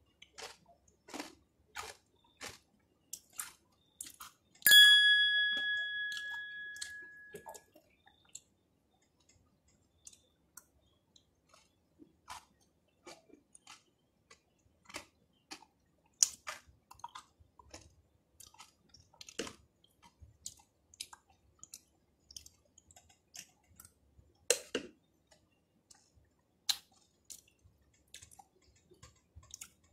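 Close-up chewing of strawberry cornflakes soaked in yogurt, with soft crunches and short irregular clicks throughout. About five seconds in, a single clear ringing ding fades out over two seconds or so.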